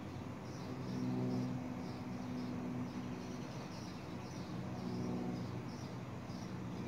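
A bird chirping over and over, about twice a second, over a low steady motor hum that swells briefly about a second in and again near the end.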